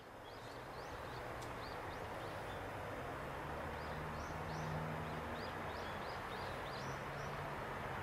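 Birds chirping over a steady background hiss, with short high calls repeating several times a second and a low, steady hum underneath.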